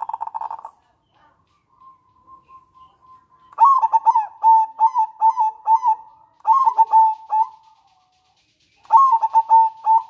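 Zebra dove singing: a rapid rattling trill ends within the first second, then three bursts of quick, clipped cooing notes follow, the last near the end.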